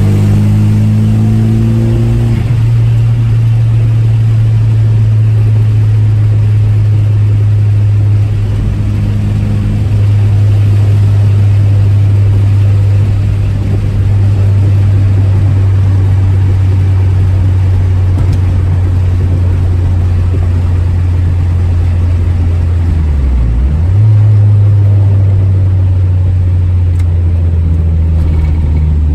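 Second-generation Mitsubishi Eclipse's four-cylinder engine and road noise heard inside the cabin while driving, a steady low drone. The engine note climbs at first and breaks off as it changes gear about two seconds in. A little over twenty seconds in, the note briefly dips, then picks up louder again.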